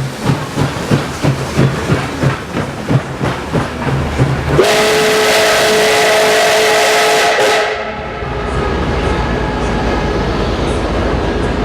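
Steam locomotive chuffing about three times a second, then its steam whistle blows one long blast of several notes at once for about three seconds, a little under halfway in. After the whistle stops, a steady rumble and hiss of the moving train.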